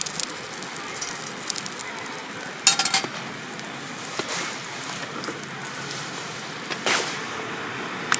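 Steak sizzling over a campfire, a steady frying hiss. A few sharp clinks sound over it, a cluster about three seconds in and another near seven seconds.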